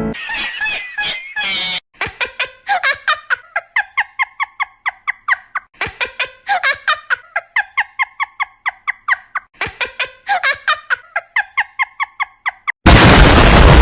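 Rapid squeaky, animal-like calls in quick succession, about four a second, in three runs separated by brief gaps, cut off near the end by a loud burst of noise.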